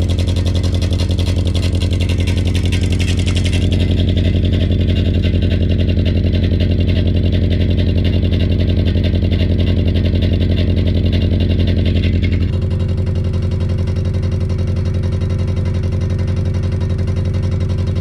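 Mitsubishi Pajero Mini's 660 cc engine idling with a steady clattering rattle ("kata-kata"), a new abnormal engine noise whose cause the owner does not know. About two-thirds of the way through it becomes quieter and duller.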